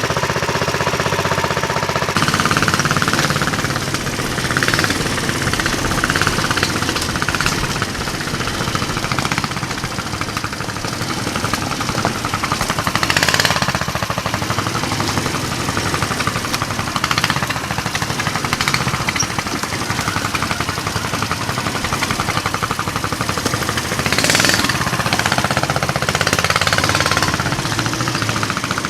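420cc single-cylinder engine of a Baja Warrior mini bike converted to a trike, running hard under load as it is ridden, its firing a fast steady rattle. Two short rushes of noise cut in about 13 and 24 seconds in.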